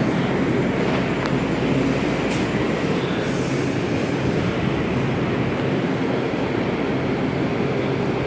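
Steady rumble and hiss of passenger rail cars alongside a station platform, even and unbroken, with a couple of faint ticks near the start.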